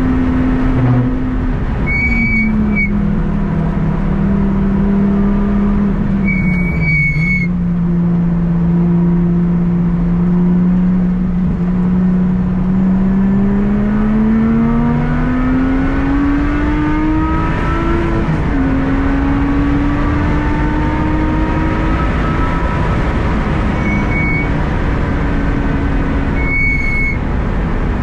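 Lotus Exige's engine running at a cruising pace over steady road noise. The engine note steps down twice in the first several seconds, climbs slowly through the middle as the car accelerates, then drops at a gear change about two-thirds through and holds steady. A few brief high-pitched chirps cut in now and then.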